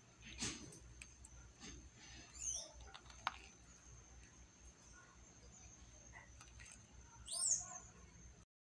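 A bird calls twice, about five seconds apart, each time a short call falling steeply in pitch. A steady faint high-pitched whine runs underneath, with a couple of brief knocks.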